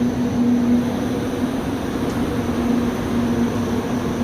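An EC fan running steadily: air rushing through it, with an even hum.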